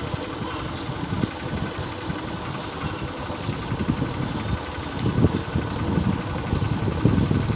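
A vehicle's engine running, with road and wind noise, heard from on board during a ride.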